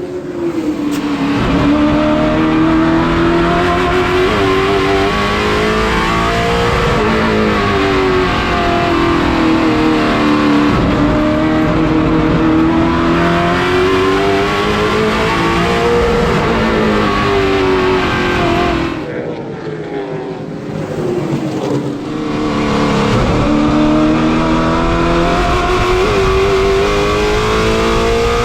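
Late model stock car engines running laps in practice on a short oval track, their pitch rising and falling every few seconds as the cars accelerate down the straights and lift into the turns. The sound eases off briefly about two-thirds of the way through, then comes back.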